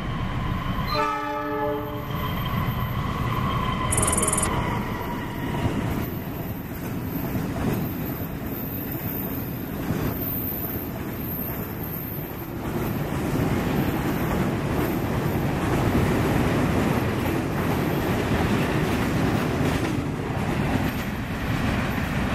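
Diesel-hauled freight train of fuel tank wagons passing close by: a short locomotive horn blast about a second in, then the steady roar and clatter of many wagon wheels on the rails, growing louder in the second half.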